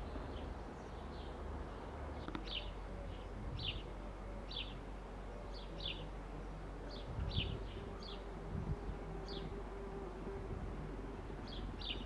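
A small bird chirps repeatedly, with a dozen or so short, high, downward chirps at irregular intervals. A bee's steady buzz passes through the middle, over a low background rumble.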